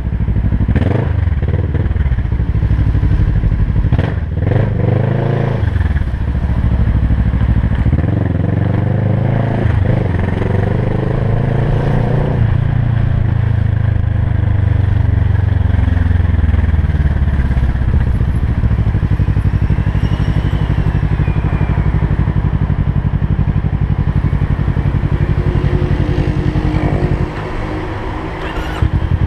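Kawasaki Versys 650 parallel-twin engine running, its pitch rising in several sweeps as it revs up in the first half, then holding steadier; it goes briefly quieter near the end.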